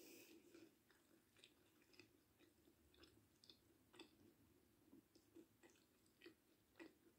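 Faint close-up chewing of a mouthful of rice and fried fish, with soft, wet mouth clicks at irregular intervals, about one or two a second.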